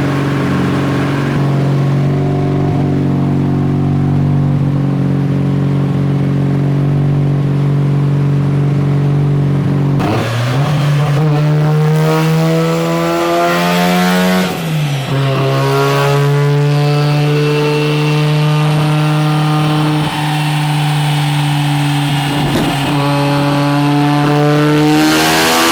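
Turbocharged 13B rotary engine of a Mazda RX-7 FC running on a chassis dyno: held at a steady speed for about ten seconds, then climbing in pitch under load during a pull. The pitch dips sharply once midway and climbs again toward the end.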